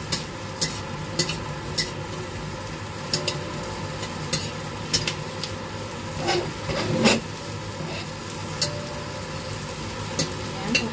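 Sliced white onion sizzling in oil in a stainless steel wok while a metal ladle stirs it, clinking and scraping against the pan every second or so, with a louder knock about seven seconds in.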